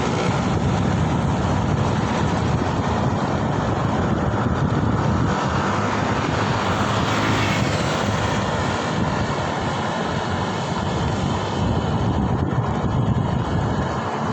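Steady rush of wind and road noise on the microphone of a moving vehicle in traffic, a continuous low drone.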